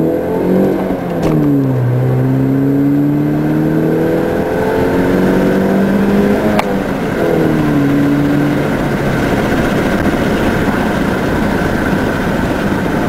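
Chevrolet Cobalt's four-cylinder engine, breathing through a drop-in K&N air filter, accelerating through the gears of its manual gearbox. The engine note climbs and drops at each upshift, about a second in and again about seven seconds in. After a last short climb it fades into steady road and wind noise as the car cruises.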